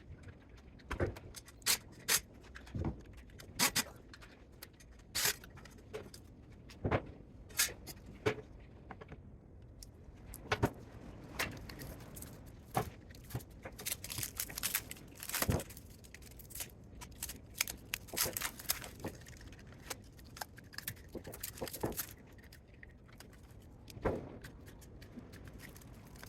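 Hand tools and metal parts clinking and clanking at irregular intervals as a DC spot welder is dismantled.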